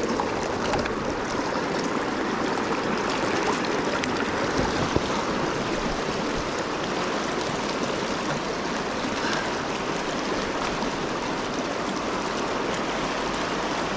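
Mountain stream rushing over rocks, a steady rush of water, with a few faint knocks about four to five seconds in.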